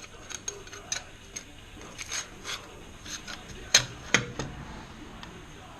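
Irregular light clicks and taps, with two louder knocks about four seconds in, from the Stanley No.112 scraper plane and its parts being handled and set down.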